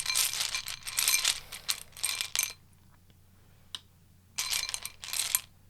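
Tarot cards being shuffled by hand: a rapid run of crackling clicks for the first two and a half seconds, a few single clicks, then another short burst of shuffling about a second long near the end.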